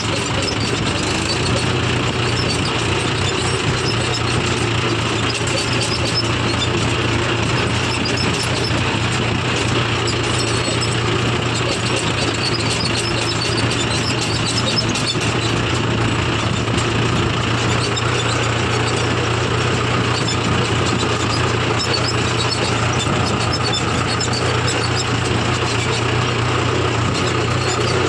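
Tractor diesel engine running steadily at an even speed, a constant low hum with no revving.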